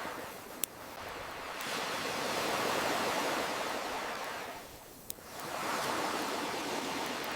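Ocean waves washing ashore in slow swells, building to a peak and falling away, then surging again near the end. A crackling campfire adds two sharp single pops, one just after the start and one about five seconds in.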